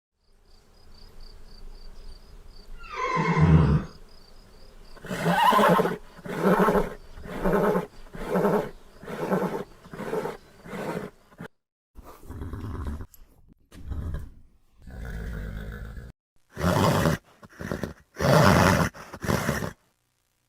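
Horse calls: a whinny falling in pitch, then a run of about seven short calls about a second apart, then several more short bursts of horse sounds broken by sudden silences.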